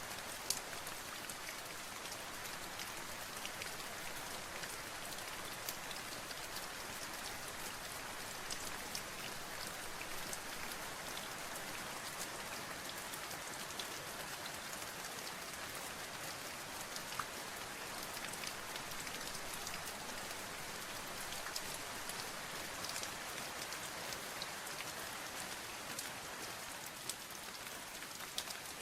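Steady rain pattering on a surface, a continuous hiss with many small drop ticks throughout.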